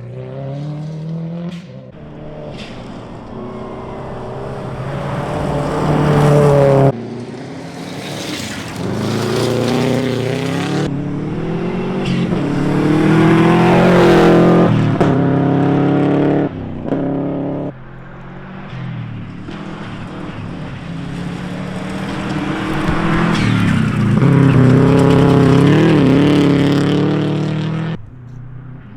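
Rally cars' engines revving hard as they drive through and past, the pitch climbing under acceleration and dropping at gear changes and lifts. The sound breaks off abruptly several times, about seven, eleven, seventeen and twenty-eight seconds in, as one pass gives way to the next.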